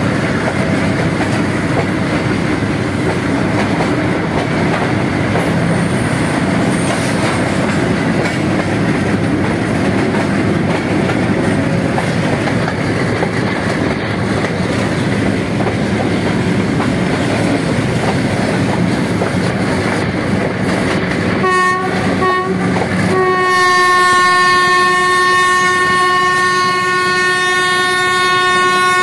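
Passenger train running at speed, heard from inside a carriage as a steady rumble of wheels and wind. Near the end the locomotive's horn sounds two short blasts, then one long held blast.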